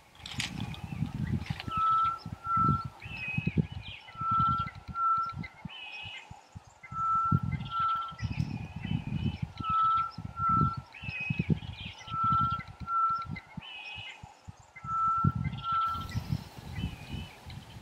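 Wild birds calling: one bird repeats a pair of clear, even whistled notes six times, about every two and a half seconds, among shorter higher chirps from other birds. Irregular low rumbling pulses run underneath and are the loudest part.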